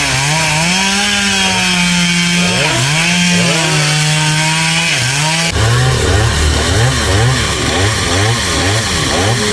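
Chainsaw running at high revs, cutting wood, its engine pitch sagging and recovering as it bogs in the cut. A little over halfway the sound changes abruptly to quick rising and falling revs, about two a second.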